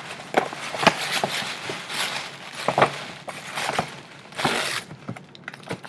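Gift bag and its wrapping rustling and crinkling as it is unpacked by hand, in irregular bursts with a few sharp knocks.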